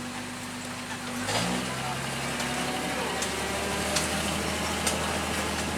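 A truck engine running steadily. About a second in its pitch steps up to a higher, steady speed, with a few faint knocks over it.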